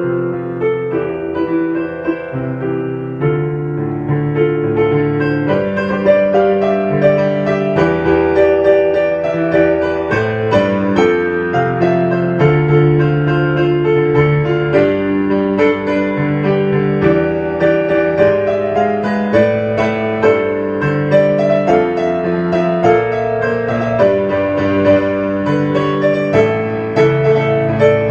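Background piano music, with notes and chords moving at an even pace.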